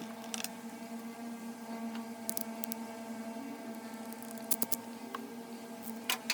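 Small electric water pump motor of a mini ice maker running with a steady hum, just freshly cleaned of hair and oiled on its shaft, with a few light clicks of handling over it.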